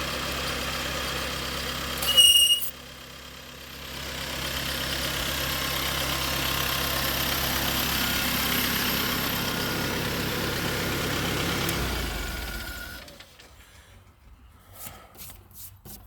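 Stump grinder's engine running steadily. About two seconds in there is a loud, sharp strike with a brief high ring as the cutter wheel hits a golf ball, and the sound dips before the engine comes back up. Near the end the engine winds down and stops, leaving a few faint clicks.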